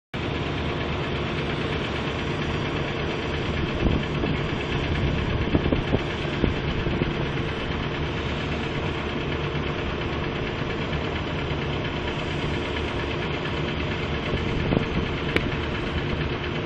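Engine running steadily at an even pitch, with a few sharp knocks about four to six and a half seconds in and once more near the end.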